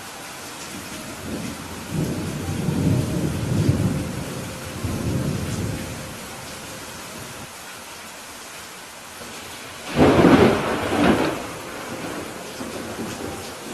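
Steady rain with thunder: a low rolling rumble a couple of seconds in, then a louder, sharper thunderclap about ten seconds in that rolls off over a second or so.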